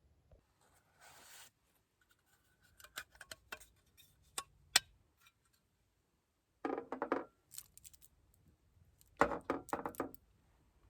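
Handling noises of small hard objects: a run of sharp clicks, then two short bursts of clatter.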